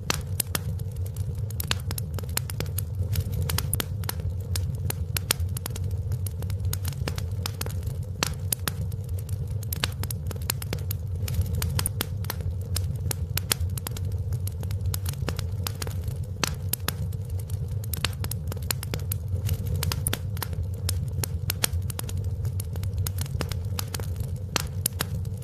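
Wood fire burning in a fireplace, crackling with many quick, irregular pops and snaps over a steady low rumble.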